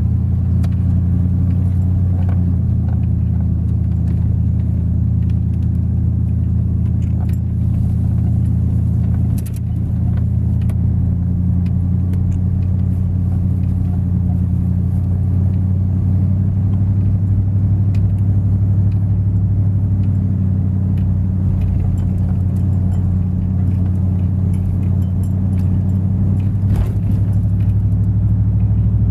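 A truck on the move: its engine and road noise make a steady low drone, with small rattles now and then.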